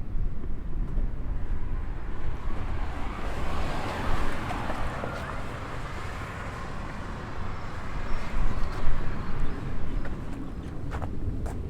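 Wind buffeting the microphone with a steady low rumble, and a rush of passing-car noise that swells and fades in the middle. A few sharp clicks near the end.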